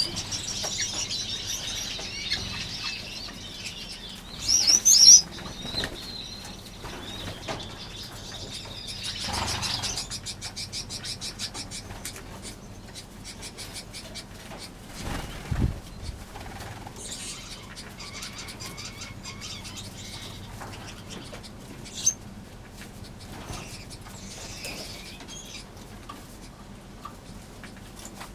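A crowd of small aviary finches chirping and calling, with the flutter of wings as birds fly between perches, busiest in the first ten seconds, with a brief louder outburst about five seconds in.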